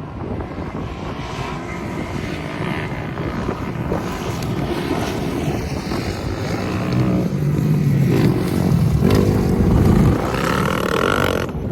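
Motocross bike engine running and revving, growing louder and climbing in pitch over the last few seconds, then dropping off suddenly near the end.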